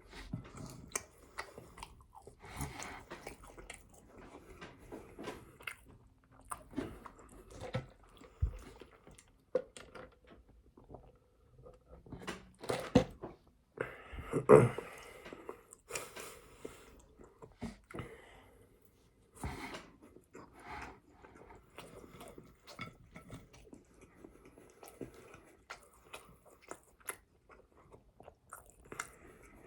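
A person chewing and biting food close to the microphone, with wet mouth sounds and crunches; the loudest crunch comes about halfway through.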